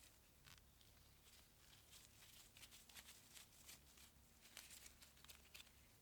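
Faint, irregular clicks and scratching of hand work on small parts, over a low steady hum.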